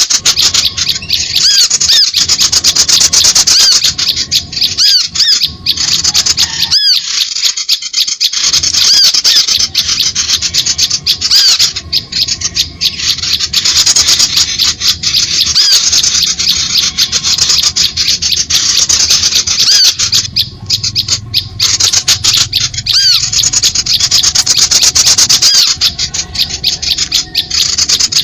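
Bird-lure recording of small songbirds calling: a dense, rapid, high-pitched chatter with short arched chirps repeating about once a second, broken by a few brief pauses.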